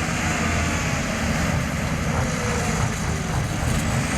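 Diesel engine of a modified International 2+2 four-wheel-drive farm tractor running steadily under full load as it drags a weight-transfer pulling sled down the track.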